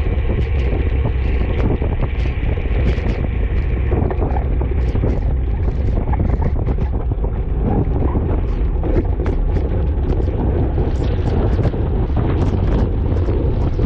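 Wind buffeting the microphone from a road racing bicycle ridden fast in the rain: a heavy, steady rumble of wind with noise from the wet road, and scattered sharp ticks throughout.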